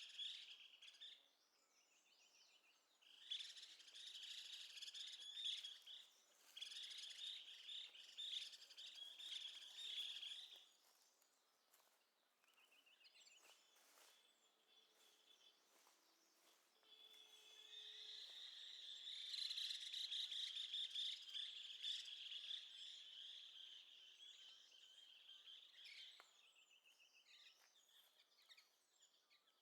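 Faint wild birdsong: small birds chirping and twittering in long bursts, with short, evenly pulsed trills in between.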